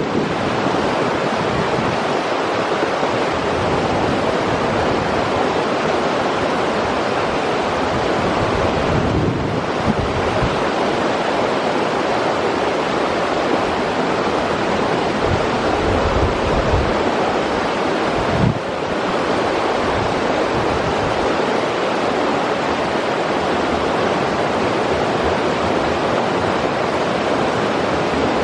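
River water rushing steadily, a constant loud hiss of flowing water. Now and then low gusts of wind buffet the microphone.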